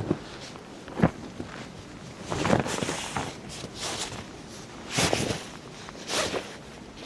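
Irregular rustling and knocking, several separate short sounds about a second apart, like gear being handled or footsteps.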